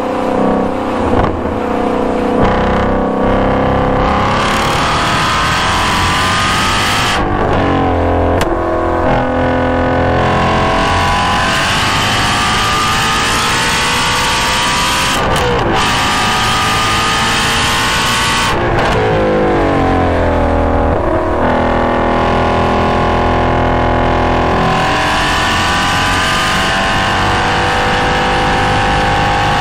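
Shelby GT350's 5.2-litre flat-plane-crank V8 through a GT350R exhaust, heard from a microphone at the exhaust, revving up hard through the gears on track. The pitch climbs in long pulls and drops sharply at several gear changes, easing off for a few seconds past the middle before climbing again.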